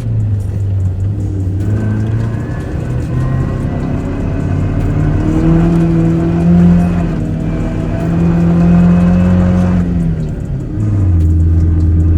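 Truck engine working under load in deep snow. The revs climb about four seconds in, hold high for several seconds, then fall back about ten seconds in.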